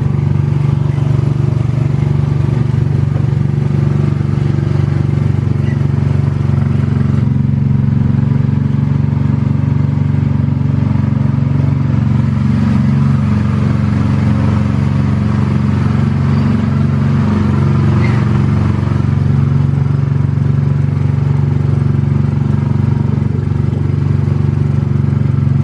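Small gasoline engine of an antique-car amusement ride running steadily under the riders, an even, unbroken drone heard from the seat of the moving car.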